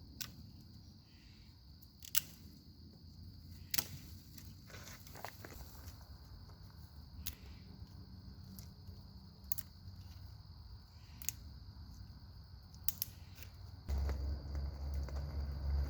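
Small wood campfire crackling: single sharp pops every second or two over a faint steady high hiss. A low rumble sets in near the end.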